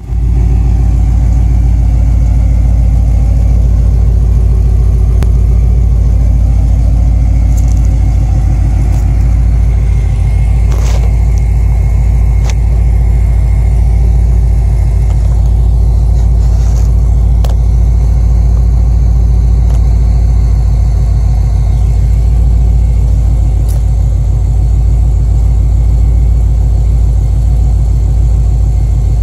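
2005 Ford Mustang GT's 4.6-litre V8 idling steadily through a Ford Racing aftermarket exhaust, a loud, low-pitched exhaust note.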